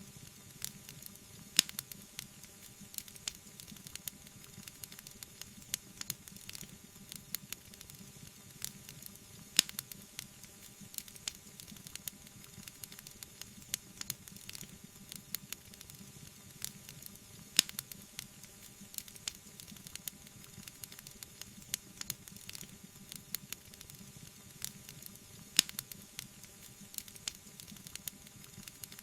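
Wood fire crackling, with a steady faint hiss and many small pops and snaps. A few louder, sharper pops stand out, about every eight seconds.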